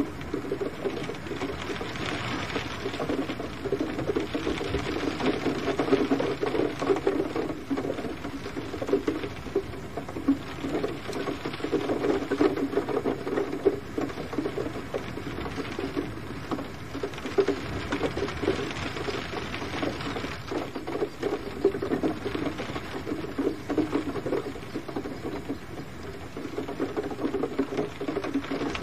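Gentle rain falling steadily, many close drops ticking unevenly on a surface.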